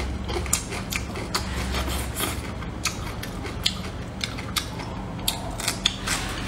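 Close-miked eating of stir-fried napa cabbage: biting and chewing, with irregular sharp crunchy clicks, a few a second.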